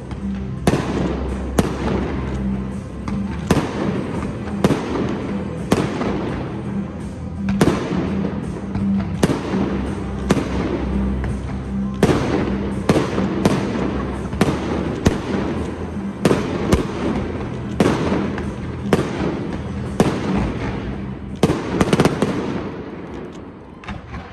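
Fireworks display: aerial shells bursting with sharp bangs about once a second, over music with a steady low bass line. The bursts thin out and the sound drops off near the end.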